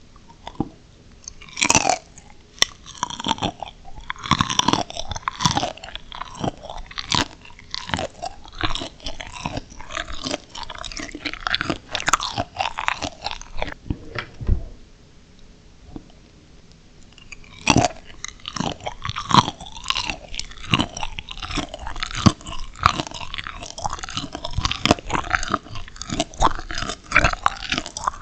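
A person biting and chewing crunchy steamed shrimp up close to the microphone, a dense run of crackling crunches. The chewing pauses for a few seconds past the middle, then resumes with a sharp bite.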